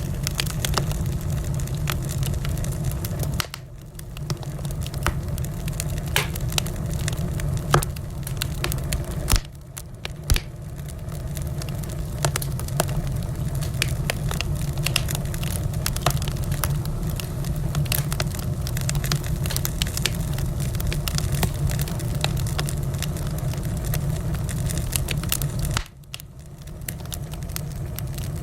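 Wood fire crackling in a fireplace: frequent sharp pops and snaps over a steady low rumble of burning. The sound drops away briefly three times, a few seconds in, about ten seconds in, and near the end.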